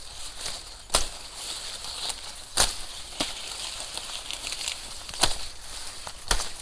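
Cattle fodder being chopped by hand with a cutting blade: about five sharp, irregularly spaced chops, each taking a forceful stroke from an unpractised hand.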